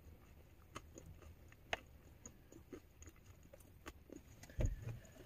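Faint chewing and eating sounds: scattered small mouth and utensil clicks, with a short low sound about four and a half seconds in.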